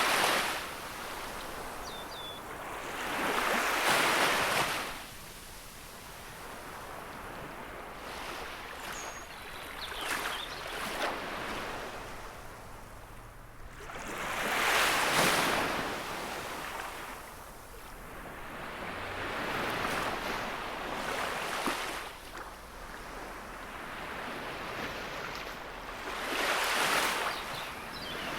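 Gentle sea waves washing onto the shore: a swell of surf every several seconds, rising and falling, with a soft hiss of water between the breakers.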